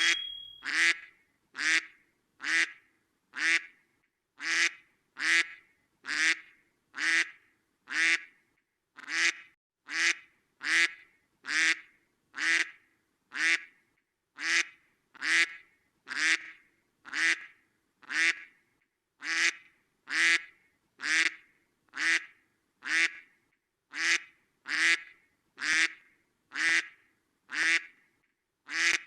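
A duck quacking over and over: single short quacks of the same shape repeating at an even pace, a little under one a second, with silence between them and a few slightly longer pauses.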